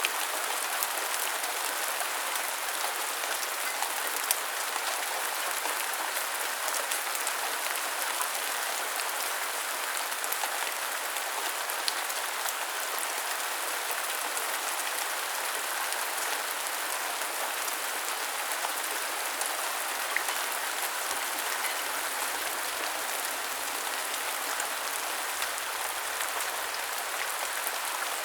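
Steady rain falling, an even hiss of drops with a few sharper drop ticks here and there.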